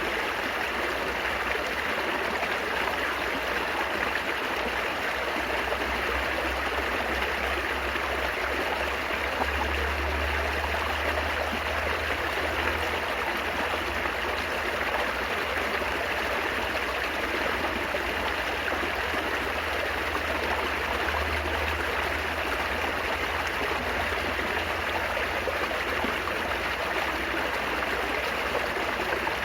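Stream water babbling and trickling over stones, a steady, unbroken rush, with a low rumble underneath that swells for a few seconds about ten seconds in.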